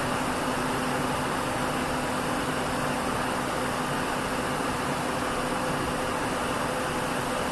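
Nissan Diesel KL-UA452MAN city bus running steadily, heard inside the passenger cabin: an even engine hum with a constant low tone.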